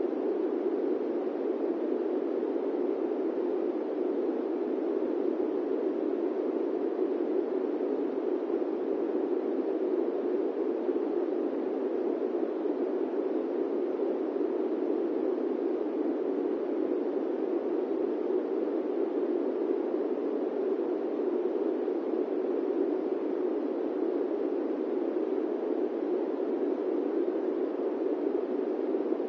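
Steady airplane-cabin white-noise ambience: an even, unchanging rushing hiss, fullest in the low-middle range, without any distinct events.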